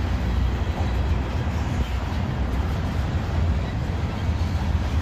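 Freight train tank cars rolling past close by: a steady low rumble of steel wheels on the rails.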